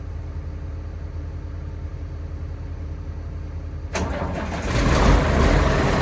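Car crusher's engine, unused for about two months, cranking and starting about four seconds in, then running much louder. Before that there is a steady low engine hum.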